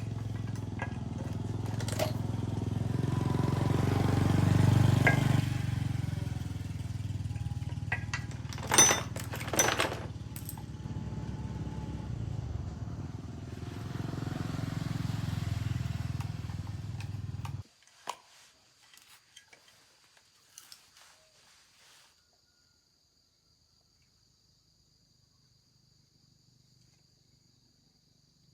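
A small engine, likely a motorbike's, running steadily with a few sharp clicks over it; it cuts off abruptly a little over halfway through. A few faint clicks follow, then near silence with a faint steady high-pitched chirring.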